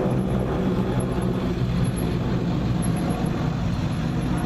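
An engine running steadily: a low, even drone with a steady hum.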